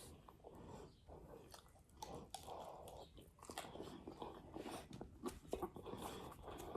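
A person chewing food close to the microphone, with faint, irregular crunches and mouth sounds.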